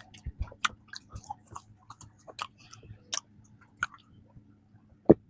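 Close-miked chewing of soft peanut cream bread: a string of small, irregular mouth clicks and smacks, with one louder thump about five seconds in.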